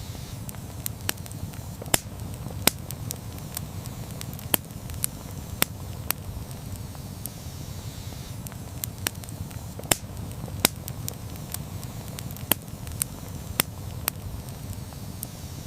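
Campfire burning, with irregular sharp crackles and pops from the burning wood over a steady low rumble of the flames.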